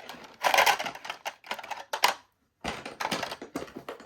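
Rapid, irregular clicking and clattering of small hard toy pieces being handled, breaking off for a moment a little past halfway before carrying on.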